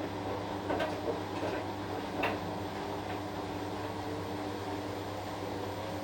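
Washing machine running: a steady motor hum with a few short knocks, roughly a second, a second and a half and two seconds in.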